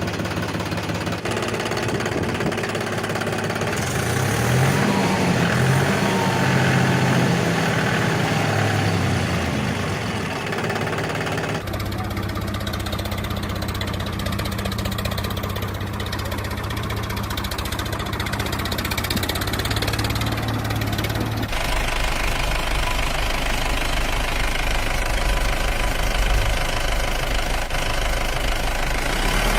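Tractor diesel engines running and revving, the engine note rising and falling. The sound changes abruptly about a second in, about twelve seconds in and about twenty-one seconds in, as one clip cuts to the next.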